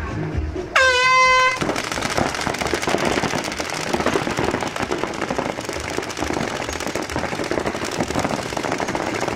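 An air horn blasts once for under a second, the signal that starts a tournament paintball point. Then many paintball markers open fire together in rapid, overlapping volleys that run on without a break.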